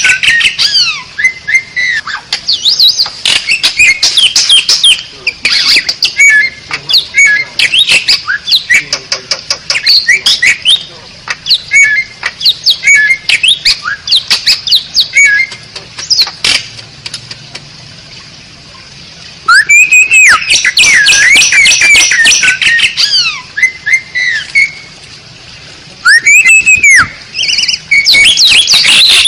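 Asian pied starling (jalak suren) singing loudly: a varied run of sweeping whistles, rapid clicks and harsh squawks in bursts, with a short lull about two-thirds of the way through.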